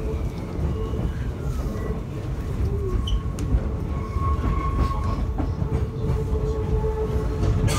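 An Ise Railway diesel railcar running along the line, heard from inside the carriage: a steady low rumble of wheels on rail, with a faint steady whine.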